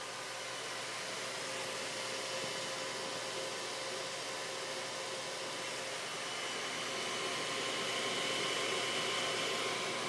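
Dell XPS 630 desktop computer's cooling fan blowing at full speed, a steady whoosh with a faint whine that grows a little louder after about six seconds. The fan never slows down as it normally does once the machine starts up: the sign of a PC that is not getting through its boot into Windows.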